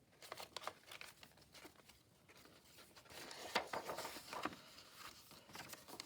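Sheets of paper rustling and being shifted about by hand, in short scattered rustles and light taps, a little louder from about halfway through.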